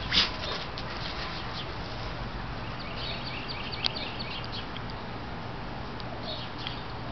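Small birds chirping, with a quick run of short high chirps a few seconds in and a few more near the end, over a steady low hum. A brief rustling noise comes right at the start.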